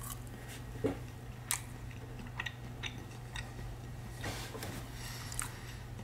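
A person chewing a mouthful of soft canned sardine in mustard sauce: faint, scattered wet mouth clicks and smacks over a steady low hum.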